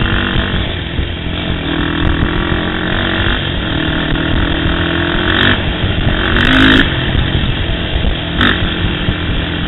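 Sport quad (ATV) engine accelerating hard, its pitch climbing three times in a row and dropping back between, as through upshifts, with a few sharp knocks from the machine over rough trail.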